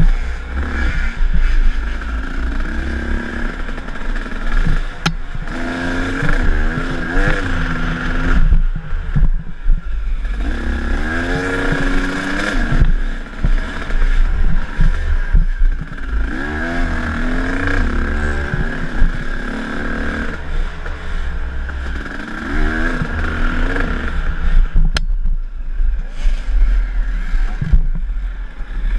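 KTM enduro dirt bike engine being ridden on trail, revving up and falling back several times as the throttle opens and closes. Steady wind rumble on the microphone and occasional clattering knocks sit underneath.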